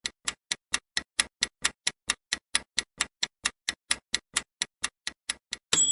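Quiz countdown timer sound effect: an even clock-like ticking, about four or five ticks a second, ending near the end in a bright ringing ding as the time runs out.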